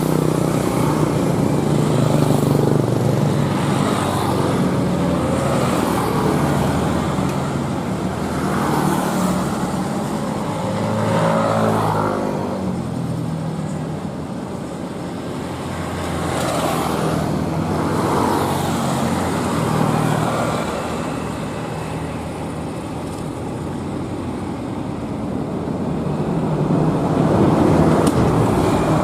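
Heavy truck engines labouring up a steep grade, the engine note rising and falling several times over steady road noise.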